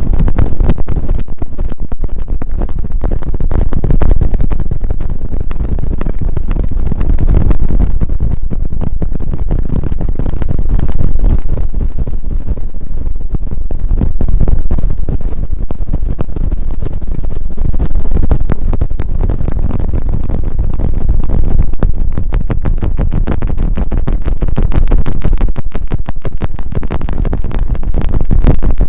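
Brushes swept close against a binaural ASMR microphone in the 'brush helicopter' trigger, a loud rushing, scratching noise with a heavy low rumble. It swells and fades in a steady rhythm, about one sweep every three and a half seconds.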